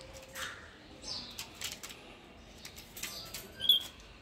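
Pet lorikeet moving about excitedly: wing flutters and scattered light clicks, with one short high chirp near the end, the loudest sound.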